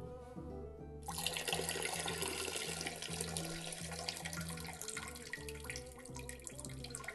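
Water running from a tap into a sink, starting suddenly about a second in, over background music.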